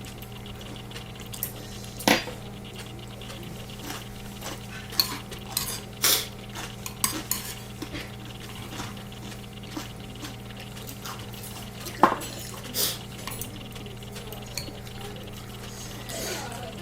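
Spoon and chopsticks clinking and scraping against a ttukbaegi earthenware pot and bowls while someone eats ramen. The clicks come at irregular intervals, with the sharpest about two seconds in and about twelve seconds in, over a steady low hum.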